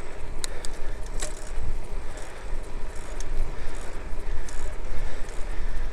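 Wind rumbling on the microphone while riding a bicycle, with the bike's rolling noise and a few sharp clicks or rattles.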